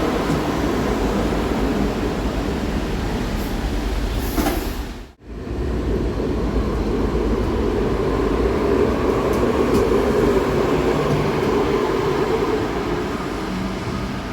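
Cologne Stadtbahn train running in the station, a steady loud rumble of wheels and motors. The sound cuts out abruptly for a moment about five seconds in, then resumes.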